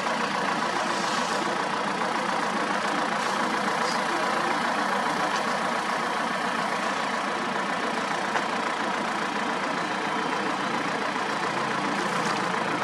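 Heavy road-paving machinery engines running steadily and evenly.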